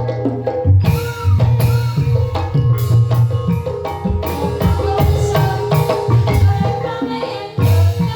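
Banyumas ebeg accompaniment music: hand drums playing a busy rhythm with mallet-struck tuned percussion ringing over them.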